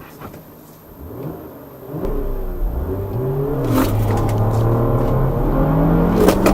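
A car engine accelerating hard from a standstill. The revs climb, drop at a gear change, then climb again.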